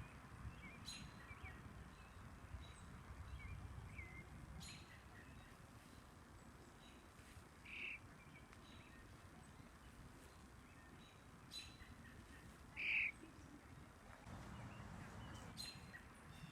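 Two short, high bird chirps, the second louder, over a faint low rumble, with a few faint clicks.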